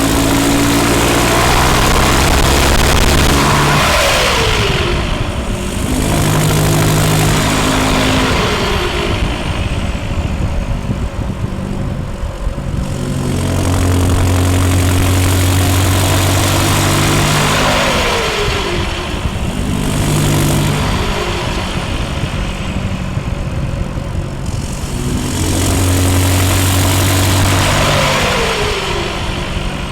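Land Rover Defender 90's remapped 2.4 TDCi four-cylinder turbodiesel through a straight-through exhaust, close to the tailpipe. The revs are held steady for a few seconds at a time, and the pitch drops back between, about five times.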